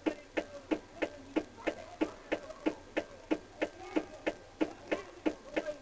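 Steady ticking, about three sharp ticks a second, with faint wavering tones between the ticks.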